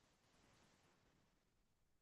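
Near silence: a pause between sentences of a sermon, with only faint background hiss.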